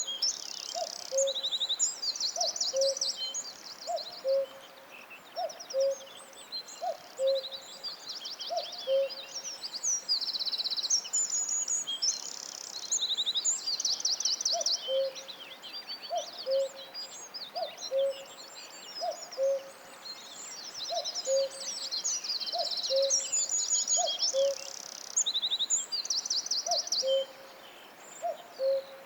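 Several forest songbirds singing in high, fast trills and chirps. Under them a low two-note hooting call repeats about once a second, pausing for several seconds in the middle.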